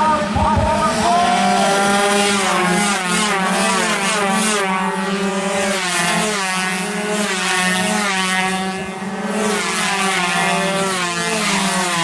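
Several two-stroke 116cc underbone race motorcycles racing, their engines revving in repeated rising sweeps that drop back at each gear change.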